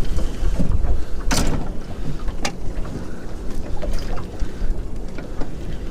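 Wind rumbling on the microphone, with a few sharp knocks, the loudest about a second and a half in.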